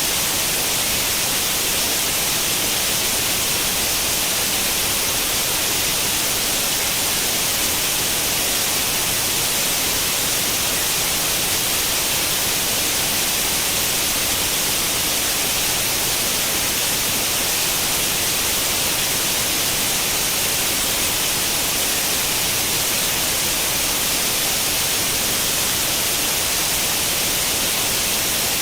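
Steady white-noise hiss like the static of an old tube television tuned to an empty channel, stronger in the upper range.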